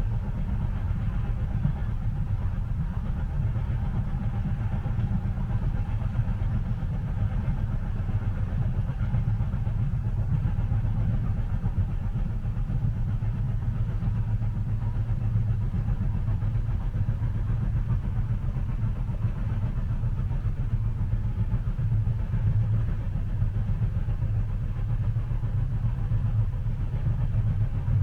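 Steady low rumble of a train running, heard from inside a passenger carriage, with a faint hiss above it and no distinct clicks from the rail joints.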